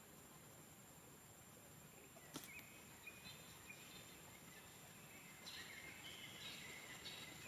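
Faint outdoor ambience with a sharp click about two seconds in, followed by short high chirps that grow busier from about five and a half seconds in.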